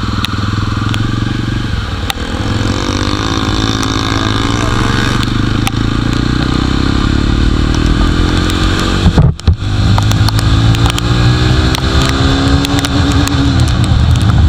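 Jawa motorcycle engine running under way, its pitch rising and falling with the throttle twice. The sound drops out for a moment about nine seconds in.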